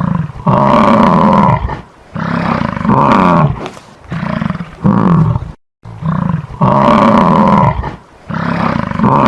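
A large animal roaring: a run of long, loud calls, broken by a brief silence about halfway through, after which the same run of calls starts over.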